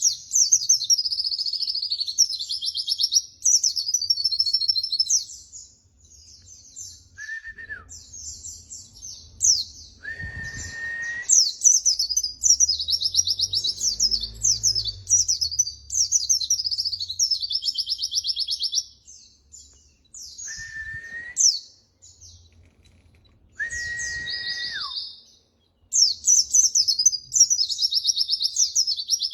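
A white-eye (pleci) singing a fast, high twittering song in long bursts, with a few short pauses. A lower, steady whistled note cuts in four times.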